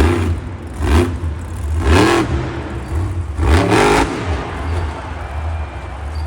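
Monster truck's supercharged V8 revving hard in about four bursts, the pitch swinging up and down with each, over a steady low engine rumble, then running more evenly after about four seconds.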